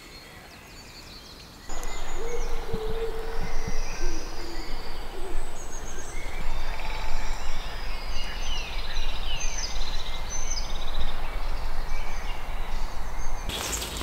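Woodland birdsong in spring: many short, high whistled calls and trills from several birds, with a lower held call repeated a few times near the start, over a steady background hiss. The birdsong starts abruptly a couple of seconds in, after a quieter stretch.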